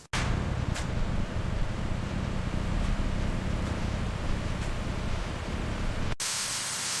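Steady rumbling noise of wind and water, heaviest in the low end. About six seconds in it cuts off suddenly and a steady hiss takes over.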